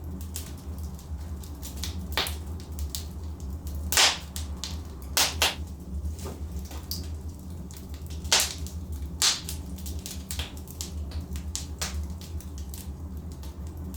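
Burning logs in a fireplace crackling, with irregular sharp pops and snaps (the loudest about four seconds in) over a steady low rumble of the fire.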